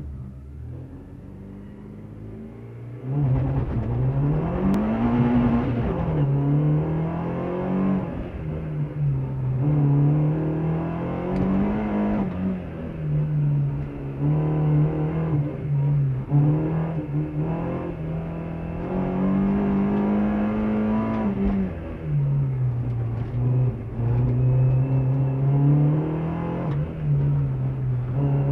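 Race car engine heard from inside the cabin, running quietly at first and then revving hard about three seconds in as the car pulls away. After that its pitch keeps climbing and dropping as it accelerates and slows through the course.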